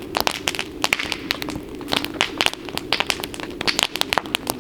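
Campfire burning with irregular sharp crackles and pops over a steady low rush.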